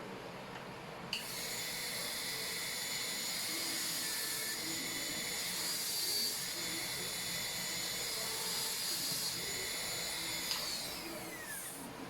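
High-speed dental drill starting abruptly with a steady high-pitched whine, running for about nine seconds while cutting a Class II cavity preparation in a lower molar, then spinning down with falling pitch near the end.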